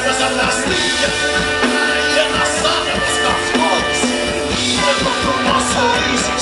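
Live rock band playing in concert.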